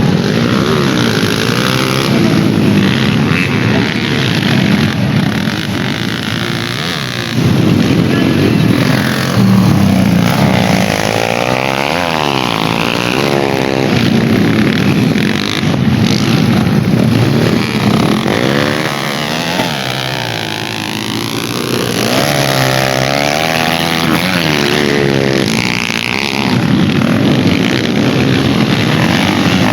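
Dirt-bike engines revving hard and passing, their pitch rising and falling again and again as riders race on a dirt track.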